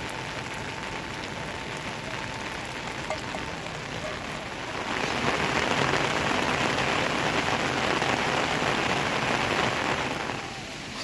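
Rain falling steadily, growing heavier about five seconds in and easing again near the end.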